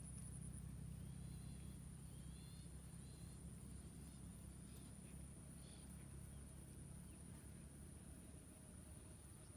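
Faint rural ambience: a steady high-pitched insect drone, with a few faint short chirps in the first six seconds over a low rumble.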